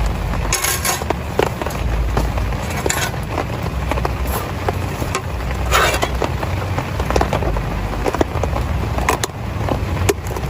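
Heavy rain falling on a tent: a steady hiss with many sharp drop impacts and a constant low rumble underneath.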